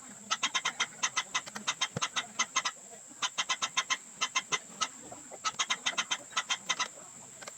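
Fowl calling in quick runs of short, high notes, about six a second, in several bursts with brief pauses, over a steady high-pitched whine.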